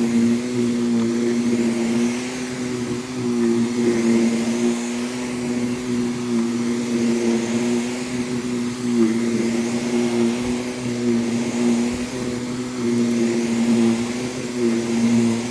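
Vacuum cleaner running steadily on a rug: an even motor hum with airflow hiss, its loudness swelling and easing every few seconds.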